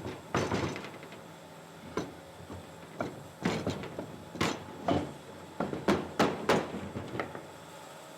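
A string of irregular knocks and clunks, about a dozen, with quiet between them: wooden workpieces and tools being handled and set down on a bench.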